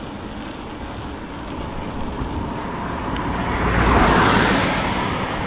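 A car passing on the road, its tyre and engine noise building to the loudest point about four seconds in, then fading, over steady road and wind noise.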